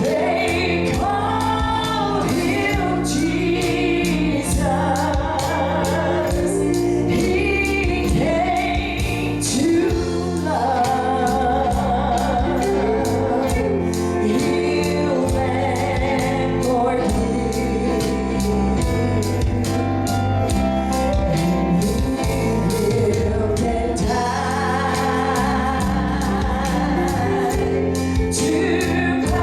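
Gospel song with voices singing together over instrumental backing with a steady beat.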